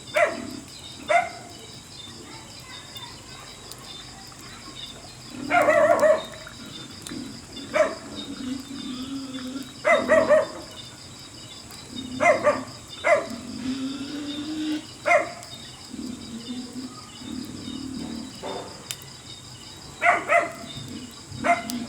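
An animal giving short, sharp bark-like calls, about a dozen in twenty seconds, some single and some in quick twos and threes. A steady high-pitched hiss runs under them.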